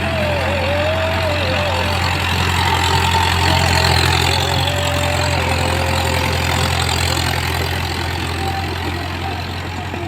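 Mahindra tractor's diesel engine running steadily, a little louder about four seconds in.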